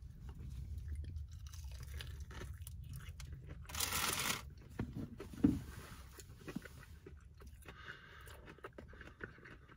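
Biting into and chewing a fried chicken tender with a crunchy breaded coating, with one loud crunch about four seconds in and quieter chewing after it.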